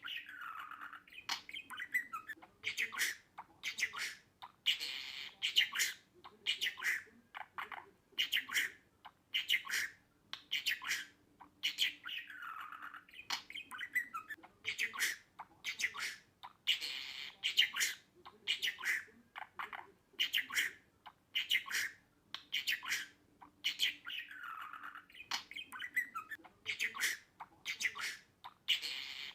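Budgerigar chattering: a steady string of short, high chirps and squawks, two or three a second, some with quick falling sweeps.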